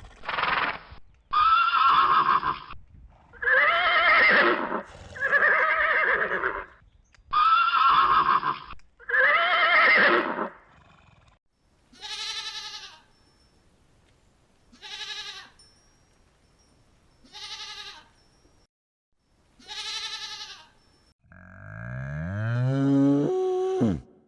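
Farm animals calling in turn. First comes a run of six loud calls, then four shorter quavering calls spaced a couple of seconds apart, then one long call that drops steeply in pitch near the end.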